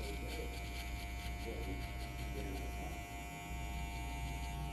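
Electric hair clippers running with a steady hum, dipping briefly about three seconds in.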